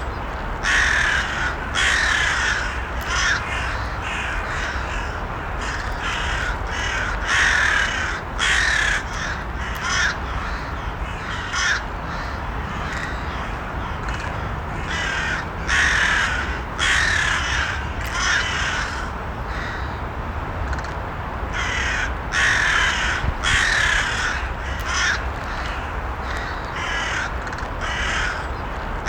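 Crows cawing: clusters of short, harsh repeated caws with a lull about midway, over a steady low background noise.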